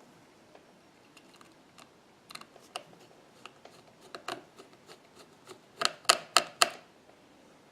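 Light clicks and taps of small repair tools and phone parts being handled, ending in a quick run of four louder clicks about six seconds in.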